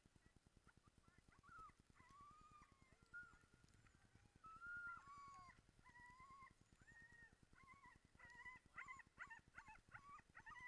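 A pack of sled dogs yelping and howling in many short, high, overlapping calls, more and more of them toward the end: a team excited to run.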